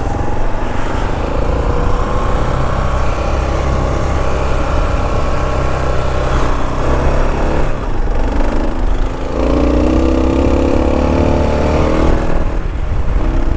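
Kawasaki KLR 650's single-cylinder engine running as the motorcycle is ridden, its note changing about nine seconds in.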